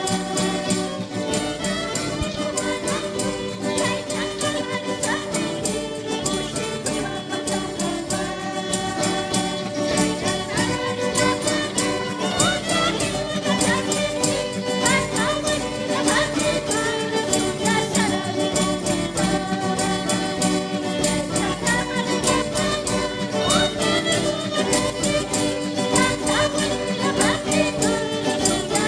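A church music group playing live: a steady beat with a violin line and singing.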